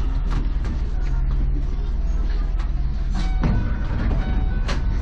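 Enoshima Electric Railway electric train running between stations, heard from inside the car: a steady rumble of wheels on rail with frequent clicks and rattles, and a brief pitched squeal about three seconds in.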